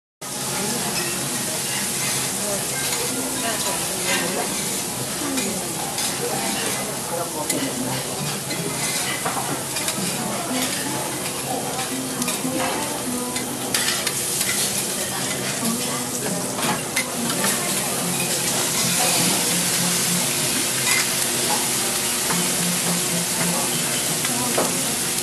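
Food sizzling in oil on a hot teppanyaki steel griddle: shimeji mushrooms frying, with a steady hiss that grows a little louder in the second half. Occasional clicks and scrapes of a metal spatula on the griddle.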